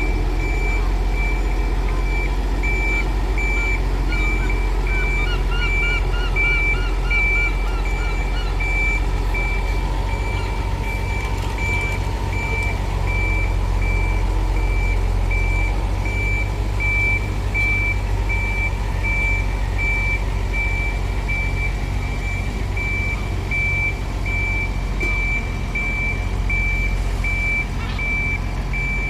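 Reversing alarm beeping evenly at one high pitch, over a steady low engine rumble. A short run of warbling chirps comes in about five seconds in.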